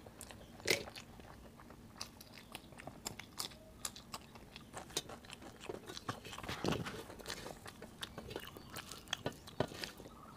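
Close-miked eating: chewing with crisp crunches, most likely of papad eaten with rice and kadhi, made of many small sharp clicks. The loudest crunch comes about a second in, and a dense run of crunches comes around six to seven seconds in.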